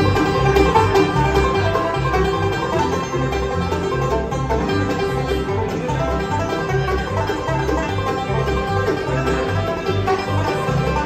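Bluegrass band playing an instrumental opening in C: rapid banjo picking with guitar and other string instruments over a steady bass line that alternates between low notes.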